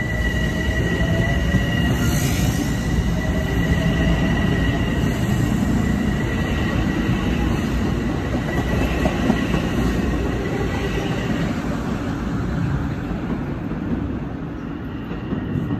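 Metro-North commuter train passing close by at speed, its wheels rumbling steadily on the rails with a high-pitched steady tone over the rumble. The tone fades out about twelve seconds in and the rumble eases a little as the last car clears.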